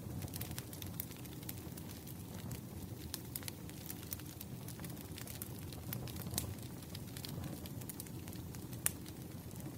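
Firewood burning: a steady low rumble of the fire with frequent sharp crackles and pops, one louder pop near the end.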